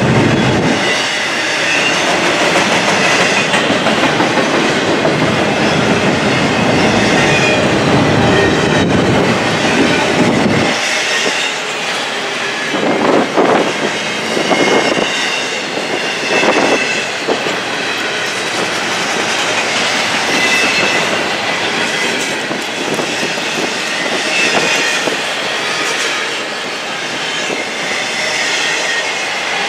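Double-stack intermodal container train's well cars rolling past, steel wheels clattering over the rail joints in a steady rush, with faint high wheel squeals now and then. A few louder surges of clatter come a little before the middle.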